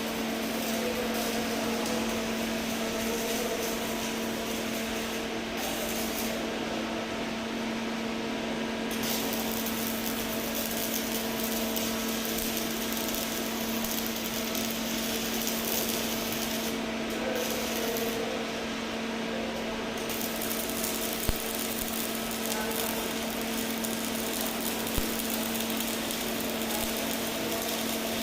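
Welding work going on steadily: a continuous hiss over a constant low hum, with the high hiss thinning out twice for a few seconds and a few sharp ticks near the end.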